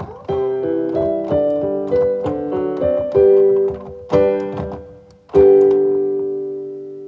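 Background piano music: a melody of struck notes, ending about five and a half seconds in on a loud chord that rings on and slowly fades.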